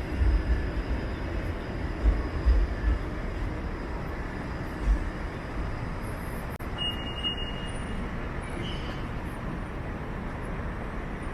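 City street traffic rumbling steadily past, with low thumps in the first few seconds and a brief high-pitched squeal about seven seconds in.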